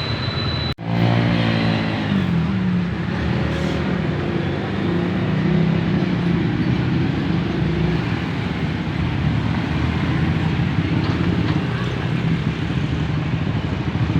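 Truck engine running on the road, a steady low hum whose pitch wavers briefly and then holds. About a second in the sound drops out for an instant, and a high whine heard before that is gone afterwards.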